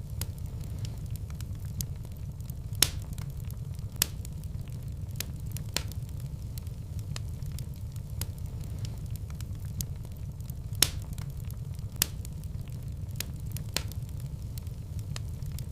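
Wood fire burning in a fireplace: a steady low rumble of the flames with scattered crackles and a few sharp pops, about four of them standing out clearly.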